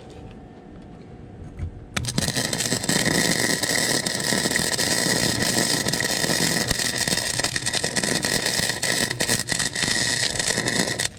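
Harbor Freight wire-feed welder's arc, starting suddenly about two seconds in, crackling steadily for about nine seconds and then cutting off. The weld is not penetrating as well as wanted, a fault the welder later traced to a worn contact tip.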